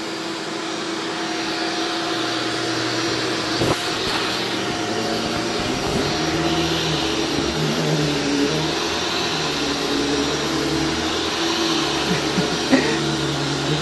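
Shark Stratos upright vacuum cleaner running steadily as it vacuums, its low hum shifting in pitch from about six seconds in. There is a single sharp click about four seconds in.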